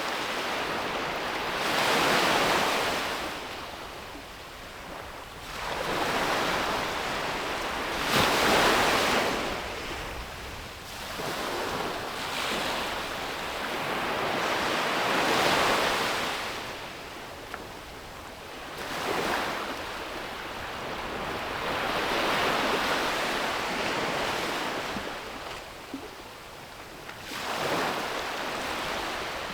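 Ocean waves breaking on a beach, each wave swelling into a hissing crash and washing back, about six over half a minute, with some wind on the microphone.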